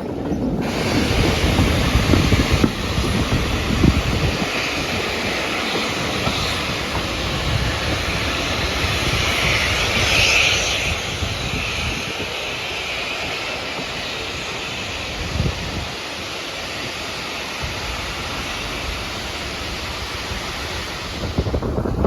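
Steady rushing noise of a moving train, with wind buffeting the microphone. The noise starts and stops abruptly.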